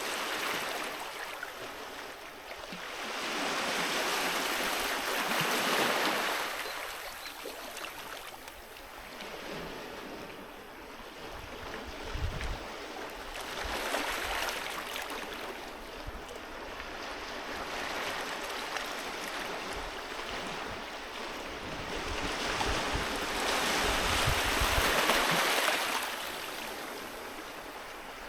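Sea waves breaking and washing up a beach, the surf swelling and fading in slow surges every several seconds, with a low rumble as some break.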